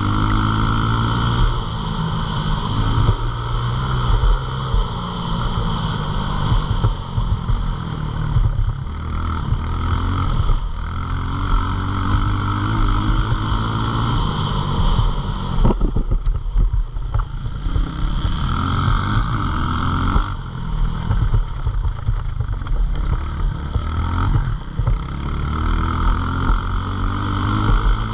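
Pit bike engine running hard and revving, its pitch climbing again and again as it accelerates, with a sharp knock and a brief drop in revs about halfway through.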